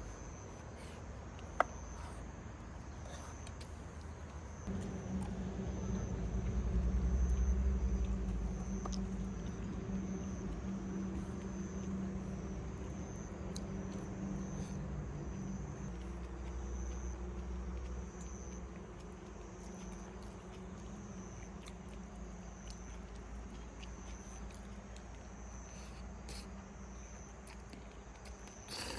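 Crickets chirping steadily in a high, pulsing trill. About five seconds in, a low droning hum comes up, is loudest a couple of seconds later, then slowly fades.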